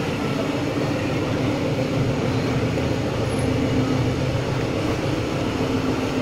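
Nilgiri Mountain Railway metre-gauge train, led by an X class steam locomotive, moving slowly away from a station. It gives a steady running noise with a low, even hum, heard from a carriage window.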